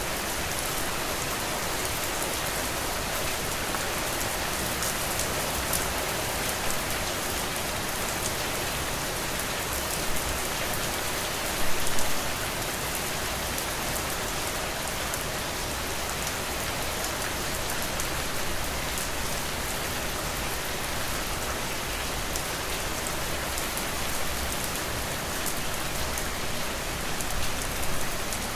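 Steady rain falling, an even, dense patter, with a couple of brief louder spots about halfway through and near the end.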